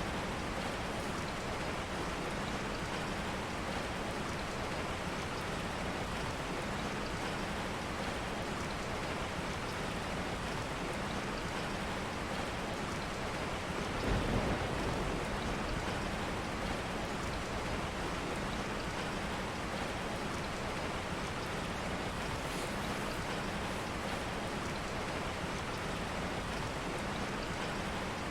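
Steady rain falling on a surface, an even hiss with no letup. About halfway through comes a brief low thump.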